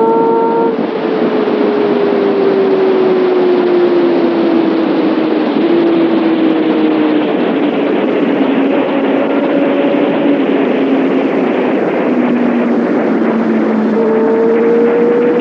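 Kawasaki ZX6R's inline-four engine and exhaust heard from the bike at speed, under heavy wind rush. The engine note falls slowly for most of it as the revs drop, then jumps up about fourteen seconds in and climbs as the bike accelerates again.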